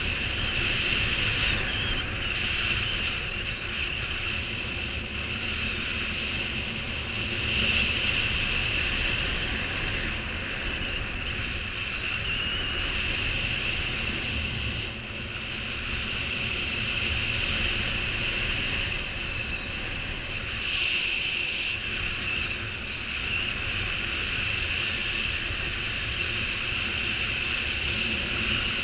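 Strong wind rushing over the microphone, a steady roar that swells and eases a little.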